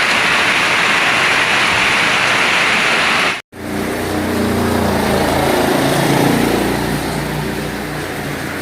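Heavy rain, a dense steady hiss. After a sudden cut about three and a half seconds in, a motor vehicle's engine hum rises over the rain, peaks, then eases off.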